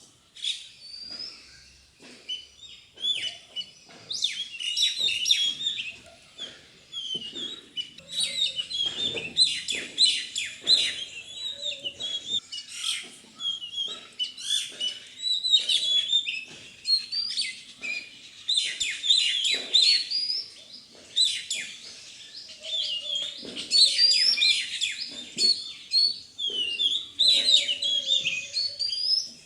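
Birds chirping and twittering busily, many short rapid chirps overlapping without a break.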